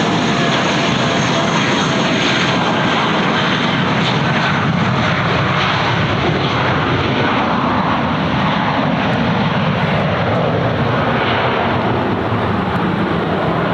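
Airliner engines running loud and steady at close range, with faint whining tones that fade over the first few seconds.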